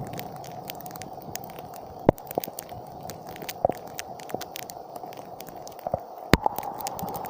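Heavy storm rain, the drops striking a hard surface close by as a dense run of sharp ticks over a steady rush. Two louder knocks come about two seconds in and again near the end.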